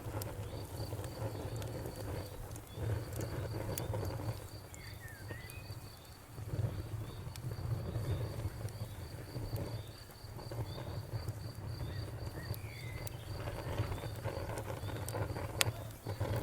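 Wood fire crackling, with scattered sharp pops over a low, uneven rumble; one pop near the end is the loudest. A cricket chirps steadily behind it, about three chirps a second.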